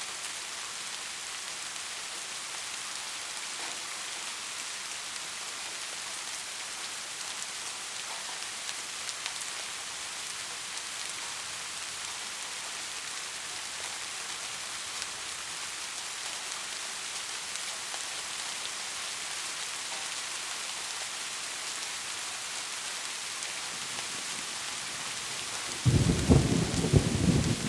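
Heavy rain falling in a steady hiss, with a loud, sudden clap of thunder breaking in near the end and rumbling on.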